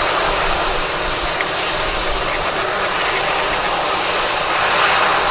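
Qatar cargo jet's engines running, a steady loud rush that swells slightly near the end.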